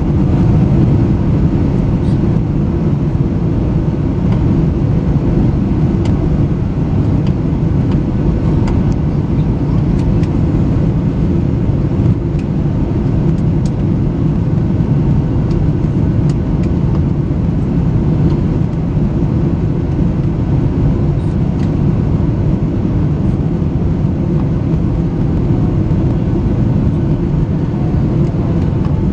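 Steady rumble of jet airliner cabin noise in flight, engine and airflow noise heard from a passenger seat, with a few faint ticks.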